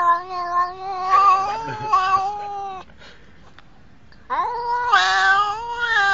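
A cat yowling in long, wavering caterwauls. One drawn-out call ends about three seconds in, and after a short pause a second long yowl begins.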